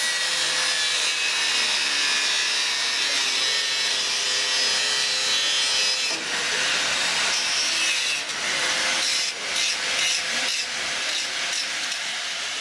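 Steam locomotive Tornado, an A1 Pacific, letting off a loud, steady hiss of escaping steam. The hiss turns rougher about halfway through, with a few short knocks mixed in.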